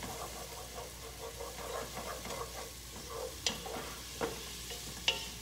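Onions and garlic sizzling in olive oil in a pot while a spoon stirs and scrapes through them, with two sharp knocks, one past the middle and one near the end.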